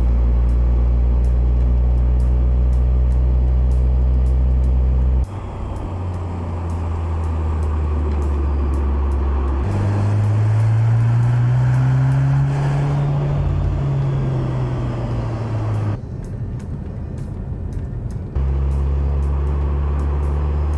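Mercedes-AMG C63 S E Performance's turbocharged 2.0-litre four-cylinder running on the move, in edited segments that change abruptly. From about ten seconds in, the revs rise and then fall back over several seconds.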